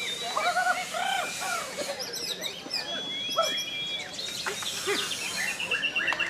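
White-rumped shama (murai batu) singing a fast, varied song of arched whistled notes and quick chirps, with a held high whistle near the middle.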